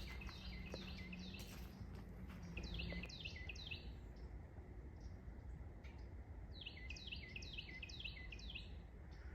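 Carolina wren singing: runs of quickly repeated falling phrases, coming in three bouts, one trailing off just after the start, one around three seconds in, and a longer one from about seven seconds.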